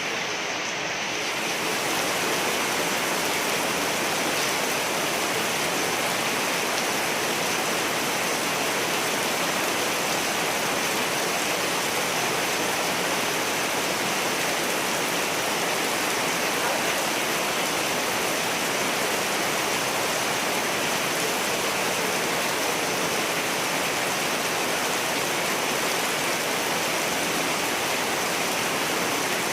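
Steady heavy rainfall, an even, unbroken hiss with no thunder.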